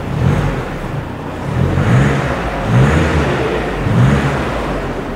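Audi A6 40 TDI's 2.0-litre four-cylinder diesel engine being revved in about four quick blips, each rise in pitch falling back to a steady idle.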